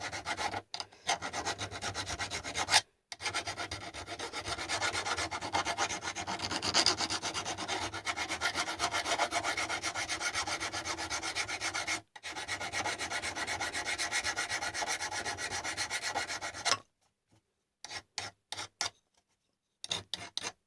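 Hand file scraping back and forth along the edges of a cast-iron plane frog, taking off the razor-sharp milled corners. The scraping runs steadily with brief breaks about a second in, near 3 s and near 12 s, stops about 17 s in, and then a few short scrapes follow.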